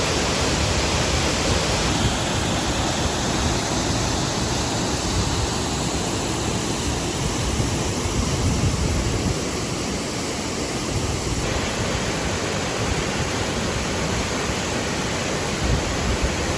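Waterfall rushing: a steady, loud wash of falling water with no pauses.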